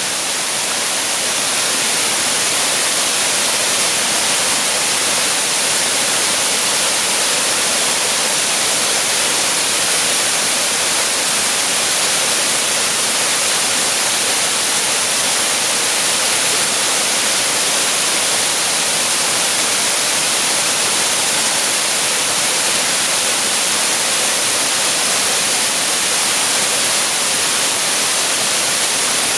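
Waterfall rushing steadily: an even, unbroken hiss of falling water, strongest in the upper range.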